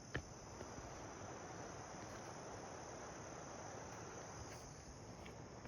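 Faint, steady high-pitched chorus of insects, such as crickets, over a quiet outdoor hush, with one small click just after the start.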